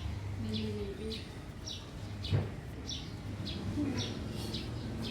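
A small bird chirping over and over, short high chirps about twice a second, over a steady low hum. A brief low call comes early on and a single knock about two seconds in.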